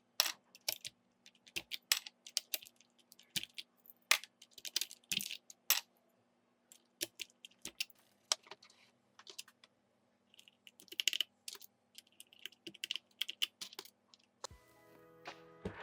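Mechanical keyboard keys clacking in irregular runs of typing, with a short scratchy rustle around the middle. Music comes in near the end.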